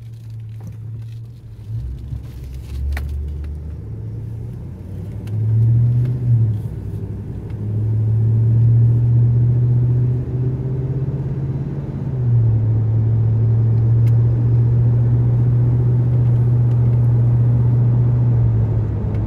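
Pickup truck's engine and exhaust through a Walker Quiet Flow muffler, heard from inside the cab while driving: a low, steady drone. The pitch rises briefly about six seconds in and steps down slightly about twelve seconds in.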